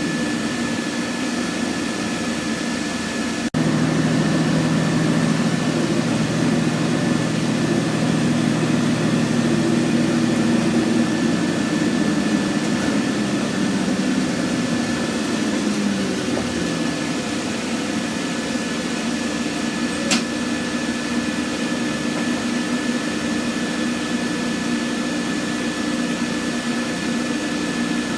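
Scania N113CRB bus diesel engine running steadily, with a steady high whine over it. About three and a half seconds in, the sound jumps abruptly to a louder engine note. That note falls in pitch about halfway through, and there is a single click near 20 seconds.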